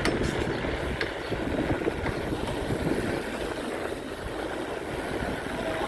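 Rushing, gusty noise of riding a bicycle, with a low rumble from wind on the microphone and road noise.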